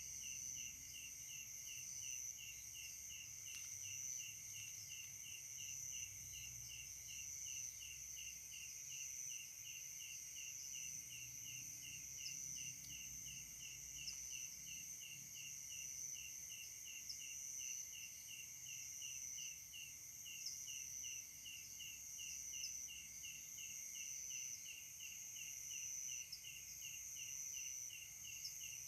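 Night insect chorus: a steady high-pitched buzzing from several insects, with one chirping in an even rhythm of about three chirps a second.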